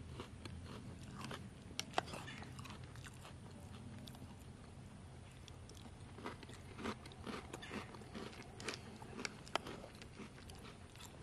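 A person chewing a mouthful of milk-soaked chocolate breakfast cereal, with soft crunches and scattered sharp clicks, the loudest about two seconds in.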